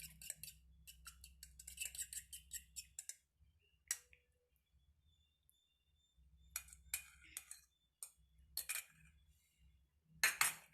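Light clinks and taps of utensils on a mixing bowl while an egg is added to the chicken marinade. A quick run of clinks comes in the first three seconds, then scattered single ones, the loudest near the end.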